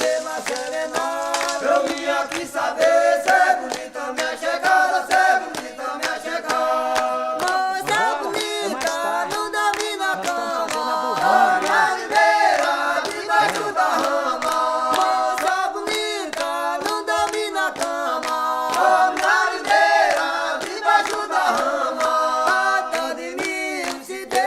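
Several voices singing a song together, with frequent sharp taps or clicks behind the singing.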